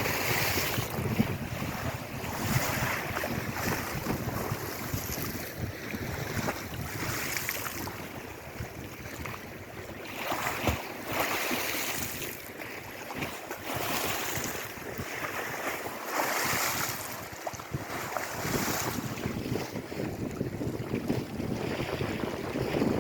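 Lake Erie waves washing onto the shore, swelling and easing every few seconds, with wind buffeting the microphone.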